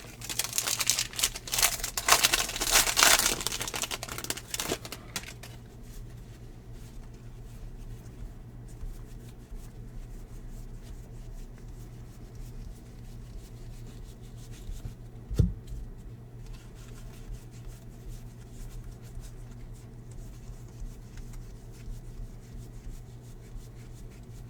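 A baseball card pack's foil wrapper crinkling and tearing open for about the first five seconds. After that only a faint steady low hum, with one short knock about fifteen seconds in.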